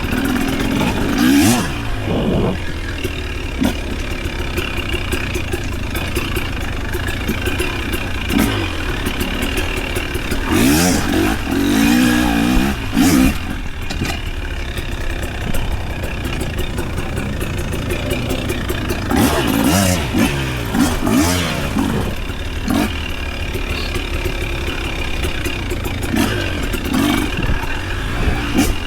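Motor vehicle engines running, with several revs or pass-bys whose pitch rises and falls, about a second in, around ten to thirteen seconds, around twenty seconds and near the end, over a steady low hum and scattered clatter.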